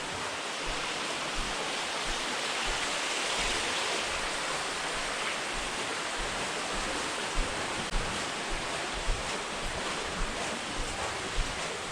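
Steady rushing hiss with soft, low thumps of footsteps recurring every half second to a second, more frequent in the second half.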